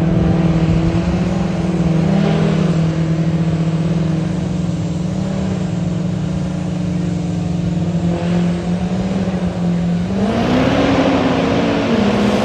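Truck engine running at a steady speed, then revving up with a rising, wavering pitch about ten seconds in.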